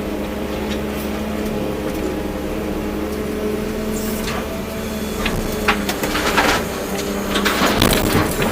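Volvo EC240B excavator's diesel engine running steadily under load, with a run of clanks and scrapes over the last three seconds or so.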